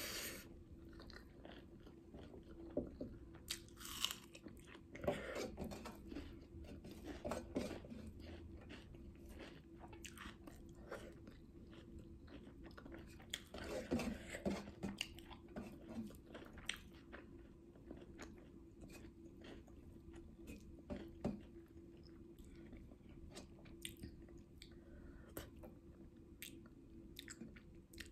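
Close-up chewing of a mouthful of rice, pork and greens eaten by hand, with many small clicks and crunches.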